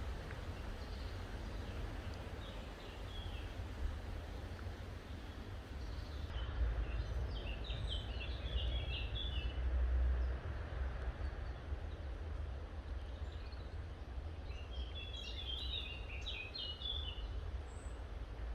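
A songbird singing three bursts of rapid chirping notes, a few seconds apart, over a steady low rumble of outdoor ambient noise.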